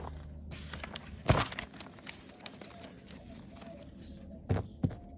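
Tools and parts being handled on a workbench: a sharp knock about a second in, two more knocks near the end, and small clicks and rustling between them.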